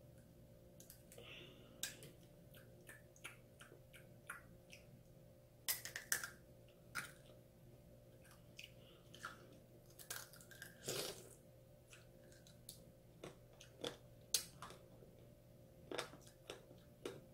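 Chewing an orange tanghulu, a mandarin orange segment coated in hardened sugar syrup: the candy shell crunches and cracks between the teeth in irregular sharp bursts, loudest about six and eleven seconds in.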